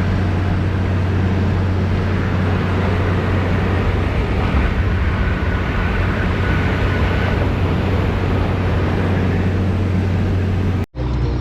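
A vehicle driving on the road: a steady low engine drone under an even wash of tyre and wind noise.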